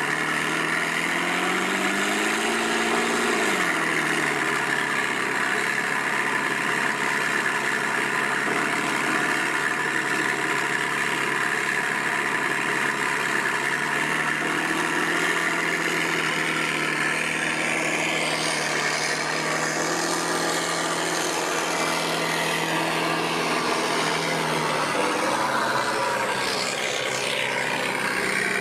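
Simulated Rolls-Royce Merlin engine sound from an RC model's sound card, played through two buzzer transducers on an electric P-51 Mustang model: a steady idle whose pitch rises and falls back once a few seconds in. In the last third a higher whine rises and falls twice.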